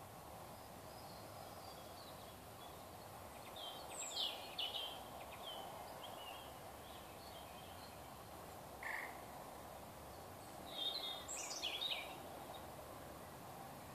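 Birds calling in short chirpy bouts, about four seconds in, once briefly near nine seconds, and again near the end, over a steady outdoor background hum.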